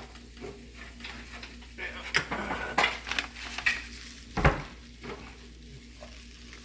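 Mushrooms sizzling in a frying pan, with a utensil and cookware clattering against it in several sharp knocks. The loudest knock, with a dull thud, comes about four and a half seconds in.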